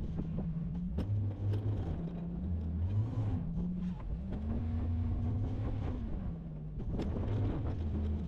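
Plow truck's engine running, its pitch rising and falling as it works back and forth, with a couple of sharp knocks.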